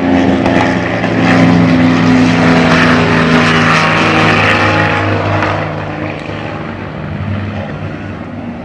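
Propeller aircraft engine running loud and steady, cutting in abruptly and easing a little quieter about five seconds in.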